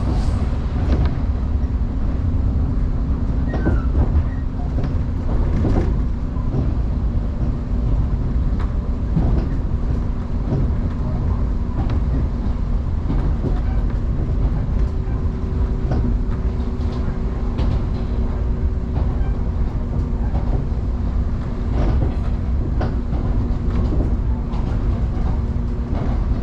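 Electric commuter train running at speed, heard from inside the carriage: a steady low rumble with a constant hum and scattered clicks of the wheels over rail joints.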